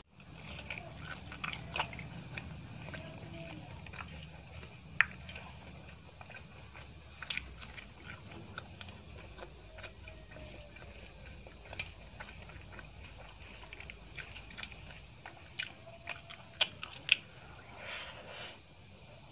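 Close-up mouth sounds of a person eating with her fingers: biting and chewing a fried pakoda and rice, with many short, sharp wet clicks and smacks, a few louder ones about five seconds in and again near the end.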